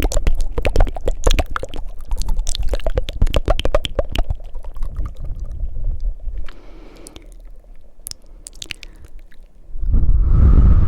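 Close-miked ASMR mouth sounds: fast, wet tongue flutters and clicks that thin out to a few scattered clicks after about four seconds, then a loud breath into the microphone near the end.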